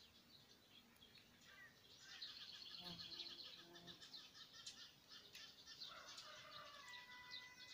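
Faint birdsong: several birds chirping and trilling in quick runs of notes, busier from about two seconds in, with a held whistled note near the end.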